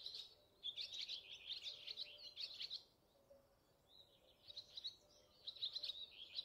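Small birds chirping and twittering in rapid, high-pitched bursts, in two spells: one from about half a second to three seconds in, another near the end.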